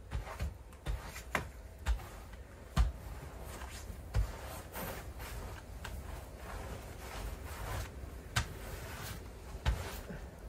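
Snow shovel working through deep snow: a run of irregular knocks and thuds with scraping and swishing in between as snow is scooped and thrown.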